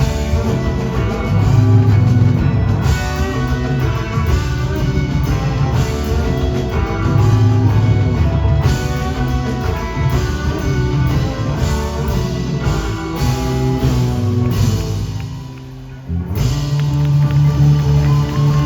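Live blues-rock band jamming on electric guitars, bass and drum kit. About fifteen seconds in the sound thins out and drops briefly, then the full band comes back in at once.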